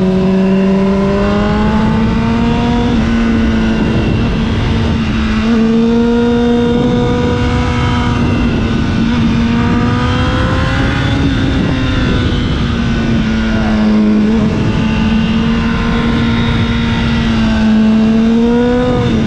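Honda CBR1000 sportbike's inline-four engine running under way on the road, with a rumble of wind noise underneath. Its pitch climbs over the first couple of seconds, then holds fairly steady, with a brief dip later and a rise and break near the end.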